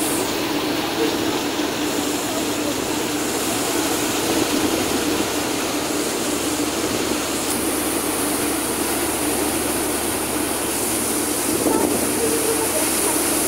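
Motor boat under way: its engine drones steadily under a constant rush of wind and water.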